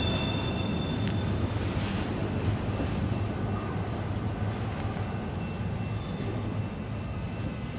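Freight train's cars rolling away on the rails: a steady low rumble that slowly fades as the train recedes.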